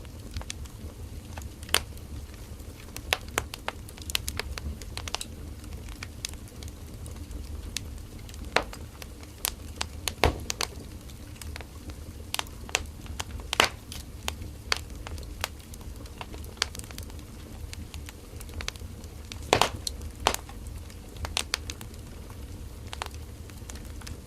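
Firewood burning in a bonfire: irregular sharp crackles and pops over a steady low rumble of the flames, with a few louder pops scattered through.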